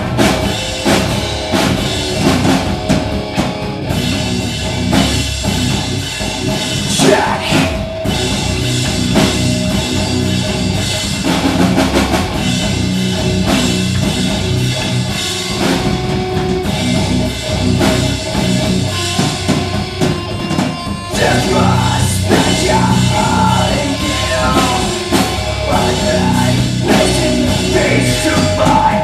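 Rock band playing live with a drum kit driving a steady beat under the other instruments.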